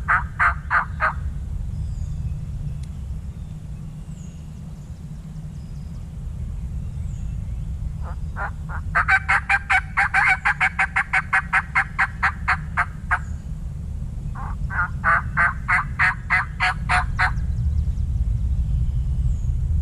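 Turkey yelping in three runs of rapid, evenly spaced notes, about four to five a second, the longest lasting about five seconds, over a steady low rumble.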